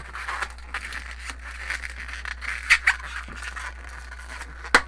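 Latex twisting balloon rubbing and squeaking as it is twisted into small bubbles and lock-twisted, with a few sharp squeaks, the loudest just before the end.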